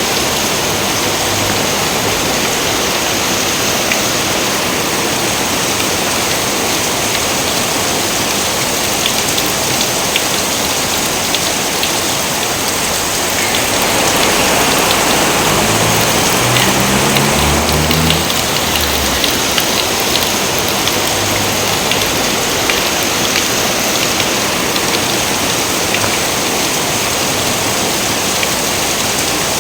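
Steady heavy rain falling, a dense hiss with fine drop ticks through it. It swells a little louder about halfway through, with a brief low rumble under it.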